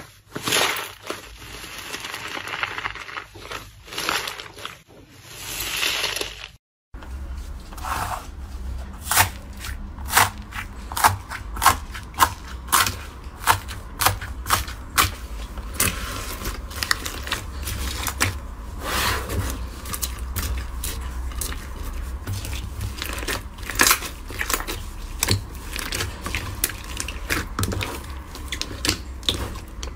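Hands working slime. For the first few seconds there are soft, noisy squishing surges about every two seconds. Then, after a short break, comes a long run of sharp, irregular crackles and pops as the slime is pressed and poked.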